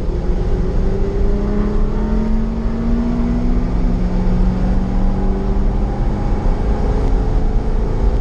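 Corvette Z06 V8 engine running under steady throttle, its pitch gliding slowly upward with gentle acceleration, heard from the driver's helmet inside the car.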